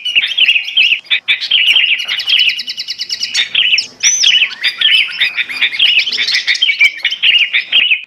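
Bird-trapping lure recording of bulbul (kutilang) calls mixed with small birds' chirps: a dense, continuous chatter of quick whistled notes and twitters that cuts off suddenly at the end.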